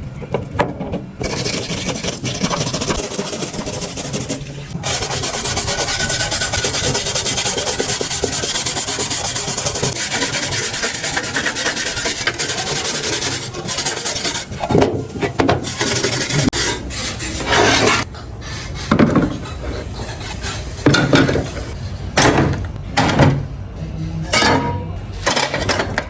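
Abrasive scraping and rubbing on the parts of an old weighing scale, typical of rust and grime being worked off by hand. There is a long continuous run first, then separate back-and-forth strokes in the second half.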